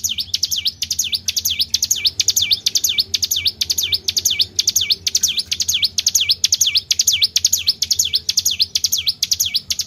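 Bird-lure recording of the songbird sold as 'tribel': rapid high chirps that sweep down and back up, repeated evenly two or three times a second without a break, over a faint low hum.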